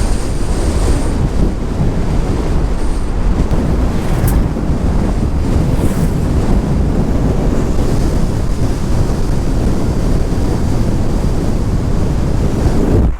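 Wind buffeting the microphone while a car drives along, a steady loud rush heaviest in the low end.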